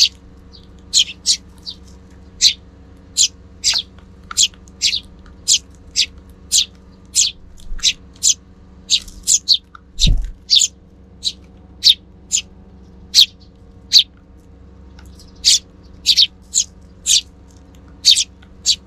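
Eurasian tree sparrows, fledglings among them, chirping: a steady run of short, sharp high chirps, two or three a second. A single low thump about halfway through.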